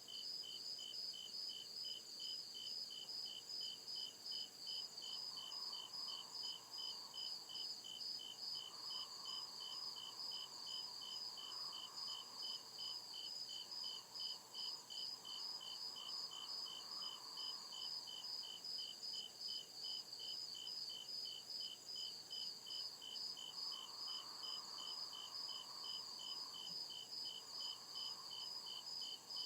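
Crickets chirping in a steady, even rhythm of about two to three chirps a second, over a continuous high-pitched hiss of other insects.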